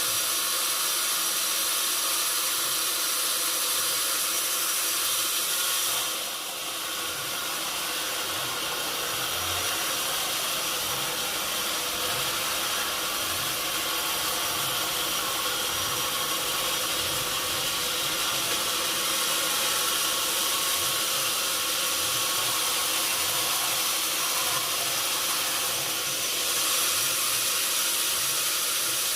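Sawmill machinery running with a steady hiss-like noise that dips briefly about six seconds in.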